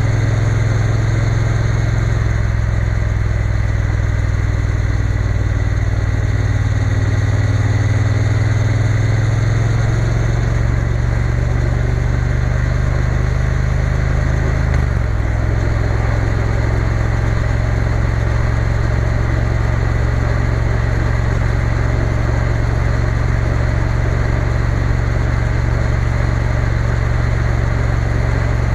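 Triumph Bonneville T120 parallel-twin engine running steadily under way, over a haze of wind and road noise. About halfway through the engine note steps down in pitch and then holds steady.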